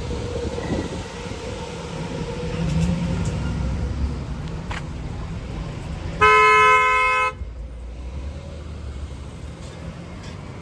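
Road traffic running steadily, with one vehicle's engine swelling past early on. Just past the middle, a vehicle horn sounds one steady blast of about a second, the loudest sound.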